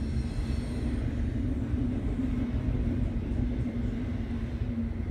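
BNSF freight train of autorack cars rolling past: a steady low rumble of wheels on the rails.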